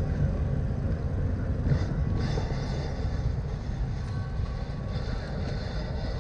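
Steady low rumble of road noise and traffic heard from a bicycle being ridden through city streets.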